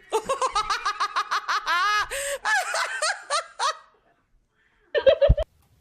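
A person laughing hard in a long run of quick, high-pitched bursts, then a shorter fit of laughter near the end.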